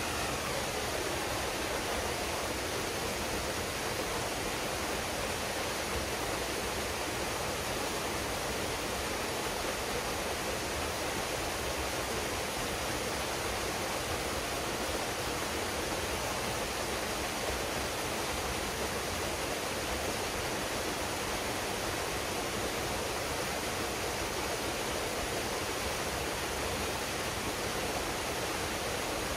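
Waterfall pouring steadily into a pool, a constant even rush of falling water.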